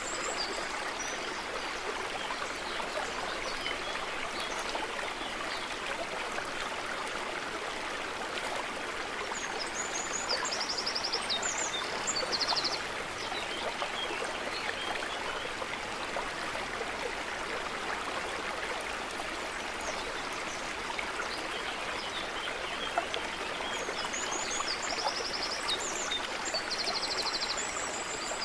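A stream of running water rushing and babbling steadily. A bird calls in short high trilled phrases about ten seconds in and again near the end.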